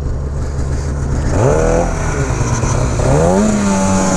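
Snowmobile engines running steadily, then revving up twice, rising in pitch about a second and a half in and again about three seconds in, the second rev holding high.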